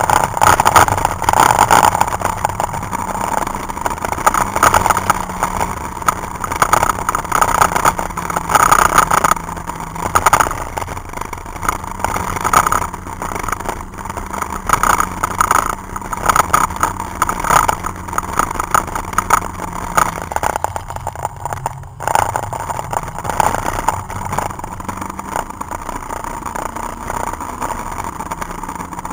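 Citroën Saxo VTS's four-cylinder engine heard from inside the cabin on a fast lap, pulling and easing off as the car speeds up and slows for corners, with road noise. The sound briefly drops away about three quarters of the way through.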